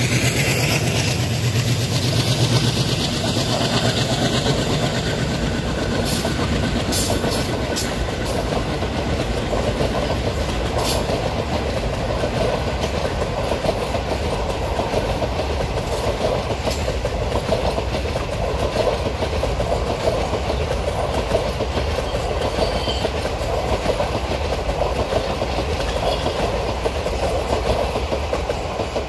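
A long rake of ICF passenger coaches rolls past on the track: a steady rumble with wheels clicking over the rail joints. The sound drops away near the end as the last coach goes by.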